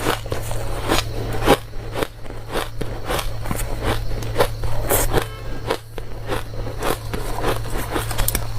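Close-miked biting and chewing of hard, dry frozen ice: rapid, irregular crunches, about two or three a second, over a steady low electrical hum.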